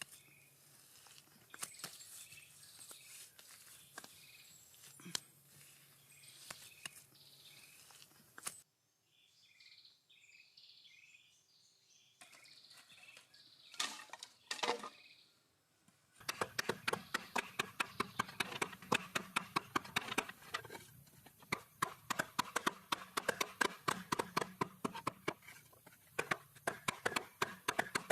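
Scattered faint clicks and short high chirps, then a few louder knocks, then a fast, steady run of sharp knocks, several a second, through the second half.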